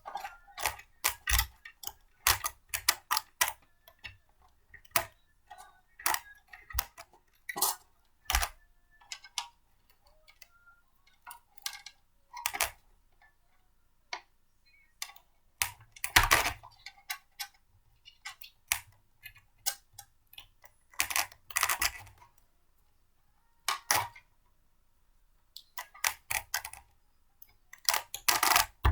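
Blender parts being handled and fitted together: irregular plastic clicks and knocks, with a few heavier knocks around eight and sixteen seconds in.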